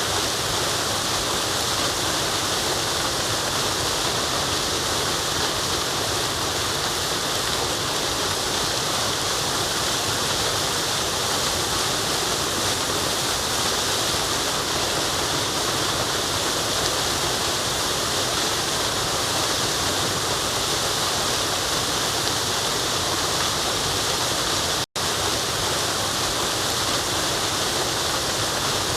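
Forest waterfall, water falling and rushing in a steady, unbroken wash. Near the end the sound cuts out for an instant, then resumes.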